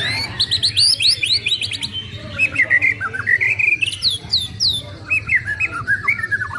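White-rumped shama singing a fast, varied song of clear whistles, rising and falling sweeps and short chattering notes, one phrase running quickly into the next.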